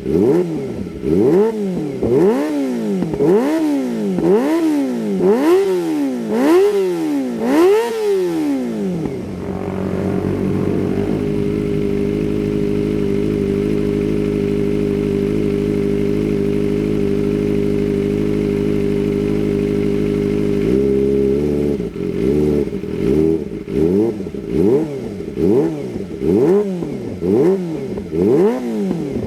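Kawasaki ZX-25R's 250 cc inline-four through an aftermarket Shijiro racing exhaust, revved in quick blips about once a second. About nine seconds in it settles to a steady, even engine note, and near the twenty-one-second mark the quick blips resume.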